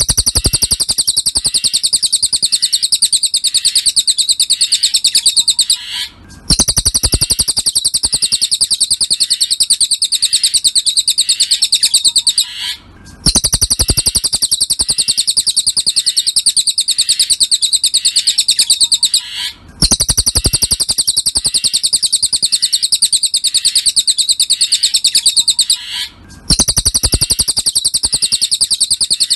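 Cililin songbird singing a rapid, unbroken chatter of high chirps, in stretches of about six and a half seconds with a brief break between them, as from a looped training (masteran) recording.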